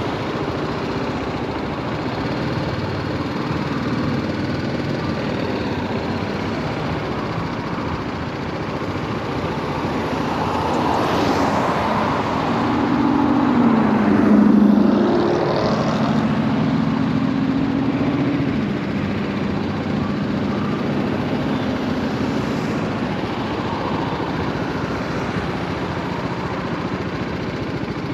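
BMW G310R motorcycle's single-cylinder engine running in traffic, with wind and road noise. Around the middle the engine note climbs, peaks, dips and holds at a steady pitch before settling back.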